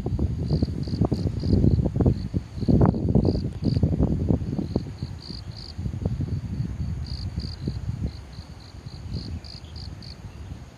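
Field crickets chirping in short, high, repeated pulses, several a second. Under them is a louder, uneven low rumble with knocks, heaviest in the first half and easing off later.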